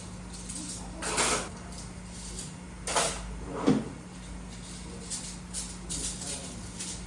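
Kitchen handling noise at a snack stall: a few knocks and scrapes of utensils and containers, then lighter clicks, over a steady low hum.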